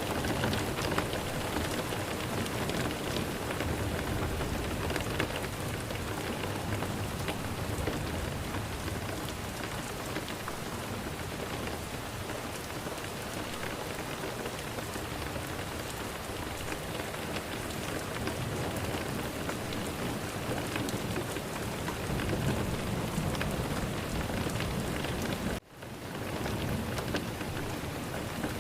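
Steady rain falling, with low rumbles of thunder underneath. About 26 seconds in, the sound drops out for a moment and then comes back.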